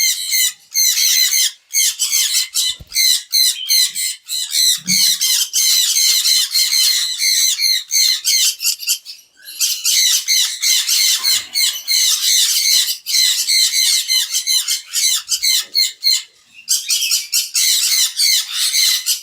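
Parrots squawking and chattering, many rapid high-pitched calls overlapping almost without a break, with short lulls about nine seconds and sixteen seconds in.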